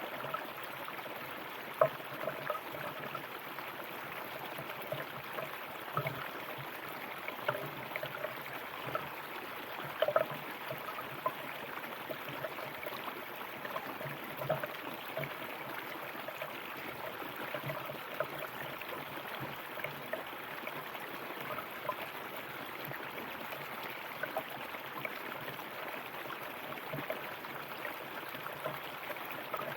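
River water running over stones: a steady rush with frequent small splashes and gurgles, a few louder splashes about two and ten seconds in.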